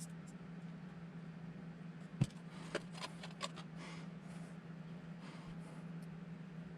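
Small parts being handled during assembly of a miniature RC crawler: one sharp click about two seconds in, then a few lighter clicks and brief rustles, over a steady low hum.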